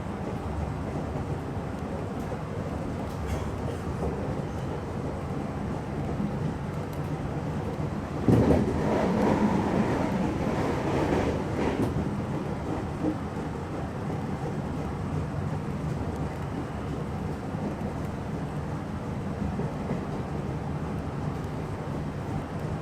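Meitetsu electric local train running along the line, heard from inside the front car: a steady low rumble of wheels on rail. About eight seconds in a louder rushing noise comes in suddenly and dies away over some four seconds.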